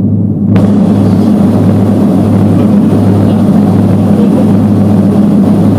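Steady propeller and engine drone of a Beechcraft twin turboprop, heard inside the passenger cabin. A broad rushing hiss joins the drone abruptly about half a second in.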